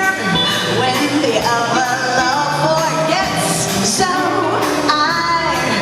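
Live vocal music: a choir with female voices singing a song over instrumental accompaniment.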